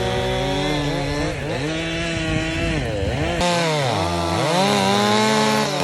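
Large chainsaw running under load, its engine pitch dropping as it bogs in the cut and revving back up several times. The sound changes abruptly about halfway through.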